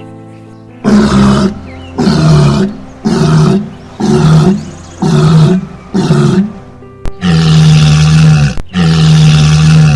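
A large animal calling loudly: six short calls about a second apart, then two longer held calls near the end, over background music.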